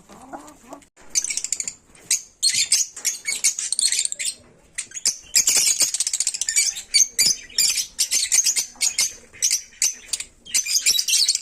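Pet African lovebirds chattering: rapid, high-pitched chirps in dense bursts broken by short pauses.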